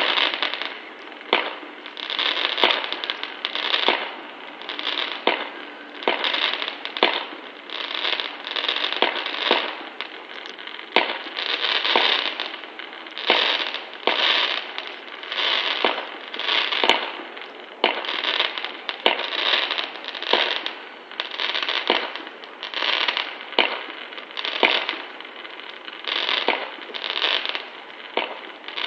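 Fireworks going off in a continuous barrage: crackling bursts about once a second, with sharp cracks among them.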